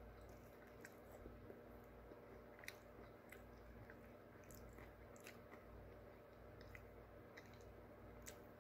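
Faint chewing of a sweet potato waffle fry, with a few soft clicks and crunches spread through the chewing, over a low steady hum. The fries are really chewy and hard to chew.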